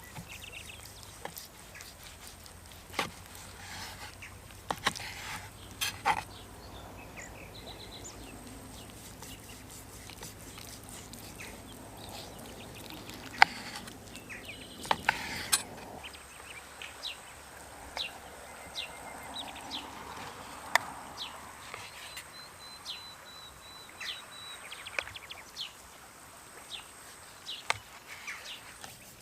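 Birds chirping among scattered clicks and knocks, the loudest a sharp knock about halfway through.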